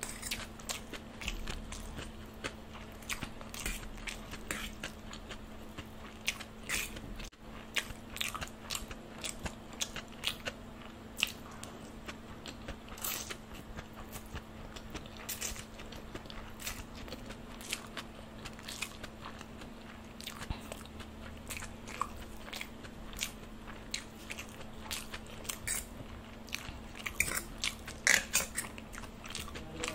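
Close-miked chewing of chow mein noodles, with many small wet mouth clicks, and a steel fork now and then clinking and scraping on a steel plate, loudest near the end. A faint steady hum runs underneath.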